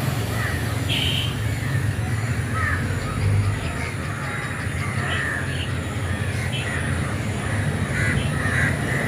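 A large flock of crows cawing, many short calls overlapping and following one another throughout, over a steady low rumble.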